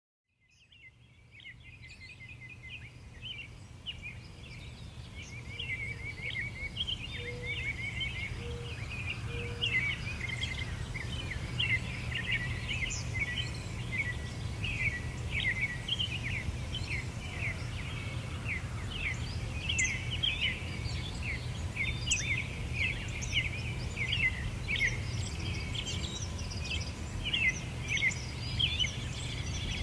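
Many small birds chirping and twittering in a dense chorus of quick, high notes, over a steady low rumble. It fades in from silence over the first few seconds.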